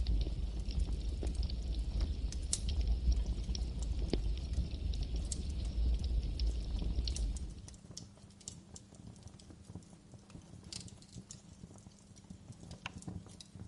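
Campfire crackling: scattered sharp pops and snaps of burning wood over a low rumble of flame. About seven seconds in the low rumble drops away and the sound gets quieter, leaving sparser crackles.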